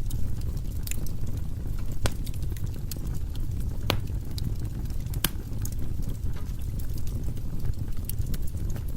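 Firewood burning in a fireplace: a steady low rumble of flames with scattered crackles and sharp pops, the loudest about two, four and five seconds in.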